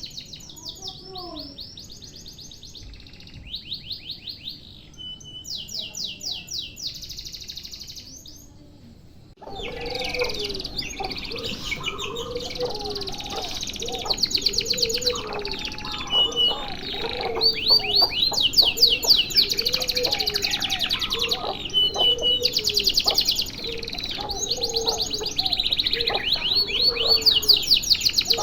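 Domestic canary singing long, very fast high trills, one rolling phrase run straight into the next. About a third of the way in the song gets louder over a background hiss, with a lower, repeated chirp running beneath it.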